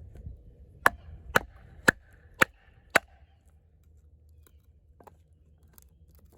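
Five sharp knocks about half a second apart, then quiet: a baton striking the spine of the Eafengrow EF-143 fixed-blade knife, driving it horizontally through a piece of wood to split off thin kindling.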